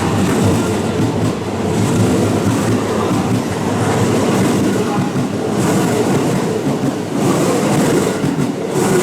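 JR West electric train running through the station close by, a loud, steady rumble of wheels and running gear on the rails, with a few brief sharper rattles in the second half.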